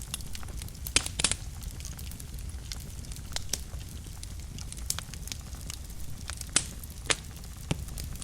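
Fire burning in a fireplace: a steady low rumble of flames with scattered sharp crackles and pops. The loudest pops come as a pair about a second in and two more near the end.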